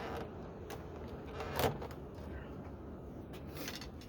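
Plastic door trim parts on a truck door being pried and handled, with a few clicks and one sharp knock or snap about a second and a half in.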